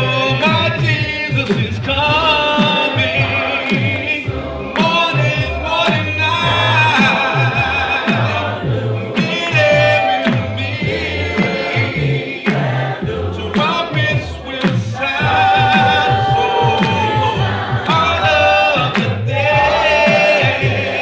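Gospel worship music: a group of voices singing over a steady beat and bass.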